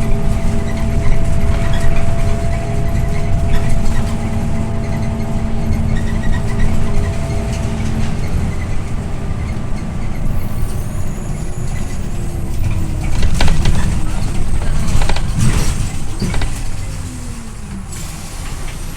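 Scania OmniLink I city bus heard from inside while driving: engine and road rumble with a steady drivetrain whine that fades about eight seconds in. Later the running pitch slides downward as the bus slows, with a few sharp knocks and rattles, and the sound grows quieter near the end.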